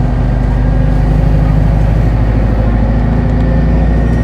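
Hino Blue Ribbon Hybrid city bus's diesel engine running steadily, heard from inside the bus.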